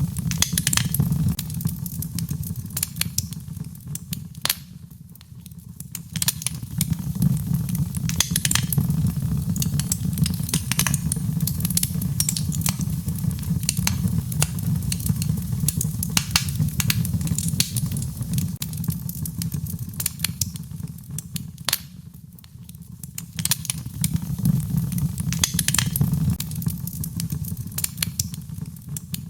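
Wood fire crackling in a fireplace: frequent sharp snaps and pops over a steady low rush of flame, easing off briefly twice.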